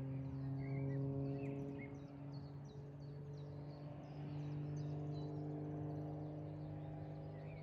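Steady low machine hum with small birds chirping and twittering over it.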